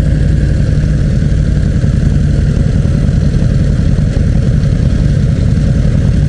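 Harley-Davidson Night Rod Special's liquid-cooled 1250 cc V-twin engine running steadily, without revving up or down.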